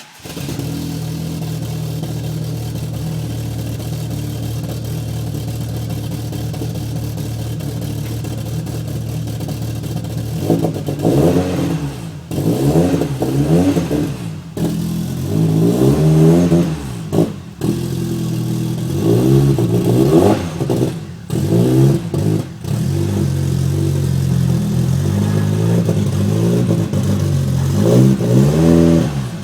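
Volkswagen Corrado G60's supercharged 1.8-litre four-cylinder engine firing up on a cold morning start and idling steadily for about ten seconds, then revved in a string of quick blips, its pitch rising and falling.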